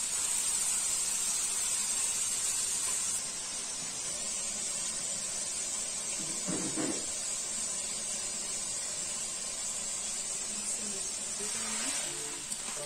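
Pieces of chicken frying in hot oil in a steel karahi, a steady hissing sizzle that eases a little after about three seconds. Background music comes in near the end.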